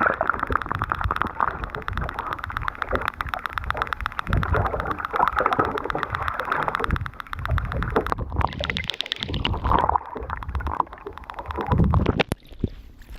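A boat's motor running in a fast, even pulse, with water gurgling and rumbling around the hull.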